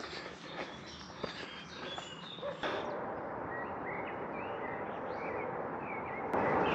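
Small birds chirping and calling in short, repeated notes over a steady outdoor background hiss. The background changes abruptly about two and a half seconds in and again near the end.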